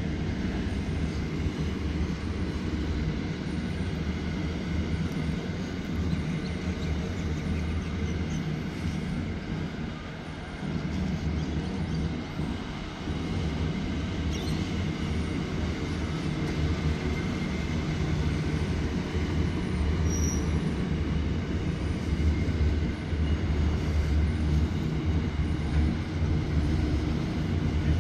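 Container wagons of an intermodal freight train rolling past over the rails: a steady low rumble of wheels on track, swelling slightly near the end.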